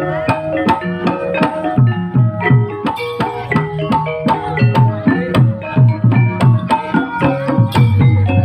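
Live Javanese gamelan music: kendang hand drums play dense strokes that bend down in pitch, over steady repeating notes from bronze metallophones.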